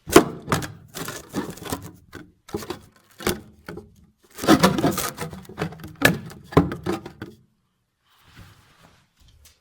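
Close handling noise: a string of knocks, clatters and rubbing, as a camera is handled and set in place, stopping after about seven seconds.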